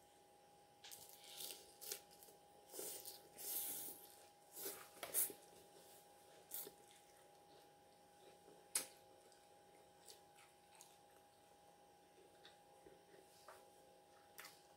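Crisp lettuce salad crunched and chewed close to the microphone: a run of crunches over the first five seconds or so, then softer chewing with one sharp click about nine seconds in.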